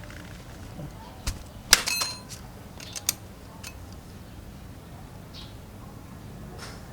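Metal tools and engine parts being handled on a workbench: a few sharp clinks and taps, the loudest about two seconds in with a brief metallic ring.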